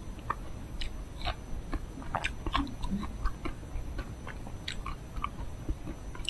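Close-miked eating of a chocolate-coated ice cream bar: chewing with irregular small crunches and wet mouth clicks.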